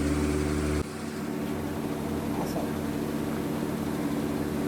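A running workshop machine with a steady hum. About a second in, its deep drone cuts off abruptly and the sound carries on quieter and rougher, as if the machine changed load or a motor switched.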